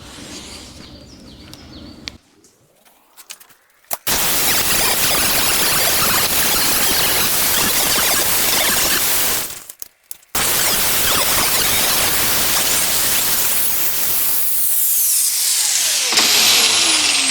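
Angle grinder grinding the steel teeth of a dog clutch square, in two long passes with a short break about halfway, starting about four seconds in.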